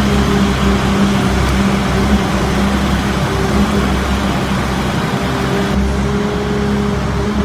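A motor vehicle's engine running steadily with a low rumble and a constant hum.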